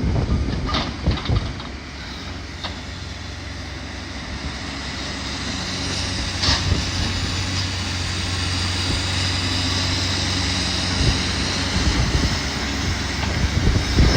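Engine of heavy demolition machinery running steadily and growing louder, with a few sharp knocks in the first few seconds as bricks and cinder blocks are cleared.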